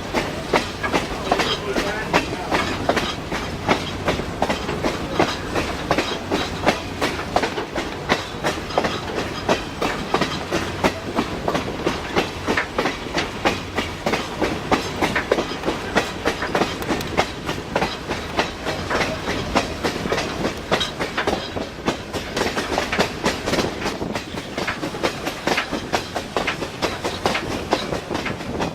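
Passenger train running along the track, its wheels clicking and clattering over the rail joints in a steady, continuous run.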